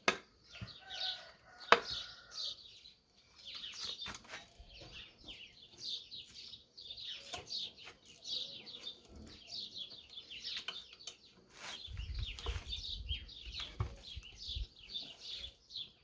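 Small birds chirping and singing in quick repeated phrases, with a sharp click just under two seconds in and a low rumble around twelve seconds in.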